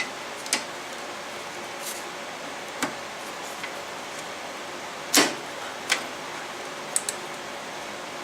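Scattered light clicks and knocks from metal engine parts and tools being handled during an engine rebuild, over a steady background hiss; the loudest knock comes about five seconds in.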